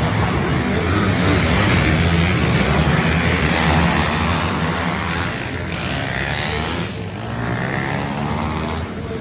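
Pit bike engines running at race speed, revving up and down as the bikes go round the track.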